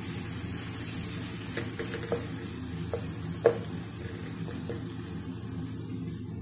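Crushed garlic, ginger and green chilli sizzling in desi ghee with browned onions in a nonstick wok, being sautéed to cook off the raw garlic smell. A plastic spatula stirs through it, knocking against the pan about six times, loudest about three and a half seconds in.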